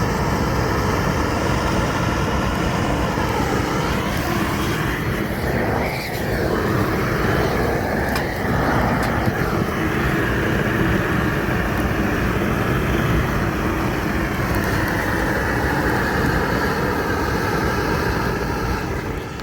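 A vehicle engine running steadily under a dense rushing noise, its pitch shifting slightly a few seconds in; it cuts off suddenly at the end.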